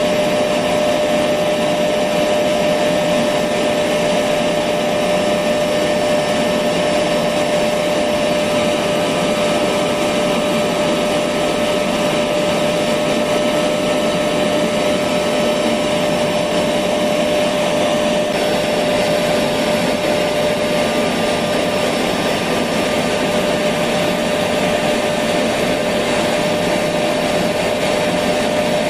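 Electric vacuum cleaner running steadily, a continuous whooshing hum with a steady whine.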